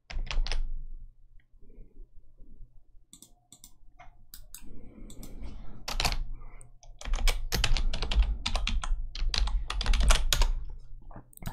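Typing on a computer keyboard: a few scattered keystrokes, then a quick run of them in the second half.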